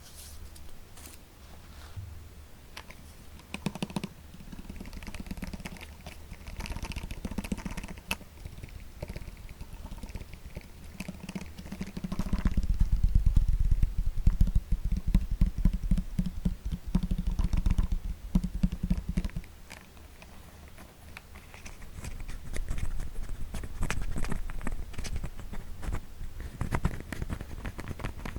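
Fingertips tapping quickly close to the microphone in dense flurries, the heaviest and fullest run in the middle of the stretch.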